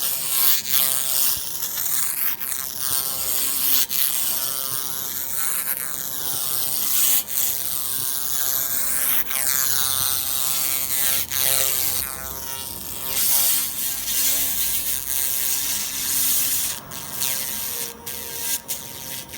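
Hand-held pulsed laser cleaner ablating rust off a steel car part: a loud, steady, high-pitched buzzing hiss, broken by a few short gaps near the end.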